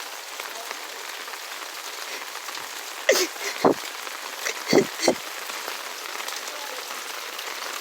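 Steady heavy rain falling on hard surfaces. A few short, loud bursts of a person's voice break through, a little past three seconds in and again around five seconds.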